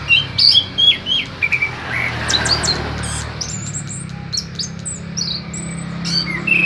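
A songbird singing busily with rapid, varied chirps and short whistled notes. The song is densest in the first few seconds, thins out in the middle, and picks up again near the end.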